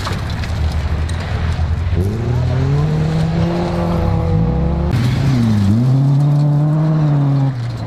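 Rally car engine revving hard: the pitch climbs sharply about two seconds in and holds high, dips briefly and climbs again past the middle, then falls away near the end.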